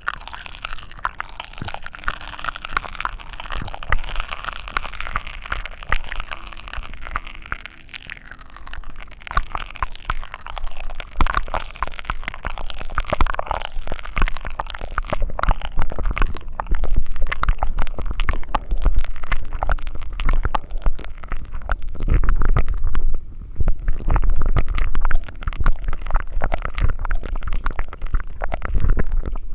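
Close-miked wet mouth sounds: dense crackling clicks over gurgling noise, growing louder, with heavy low rumbling in the last several seconds.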